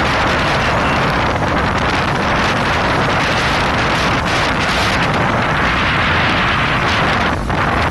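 Heavy rain falling steadily in a loud, even hiss, with wind rumbling on the microphone.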